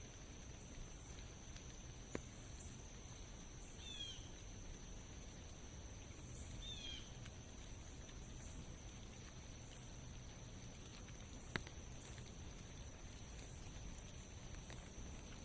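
Light rain falling in a forest, a faint even patter, under a steady high-pitched hum. Two short bird chirps come about four and seven seconds in, and two sharp taps about two and eleven seconds in.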